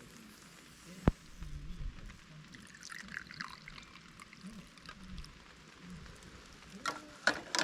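Liquid being poured and trickling, with a sharp click about a second in and a few short knocks near the end.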